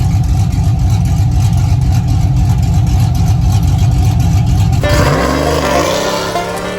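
Pickup truck's V8 engine and exhaust, a loud deep rumble. About five seconds in the rumble drops off and the pitch sweeps up and down.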